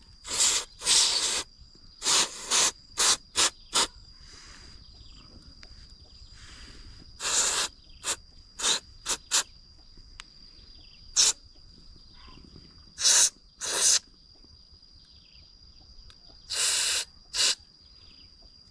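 Short, irregular hissing blasts of pressurised spray, each under about half a second and grouped in clusters, blown through the small holes and passages of a brush cutter's carburettor to clear out dirt. A faint, steady high insect drone runs underneath.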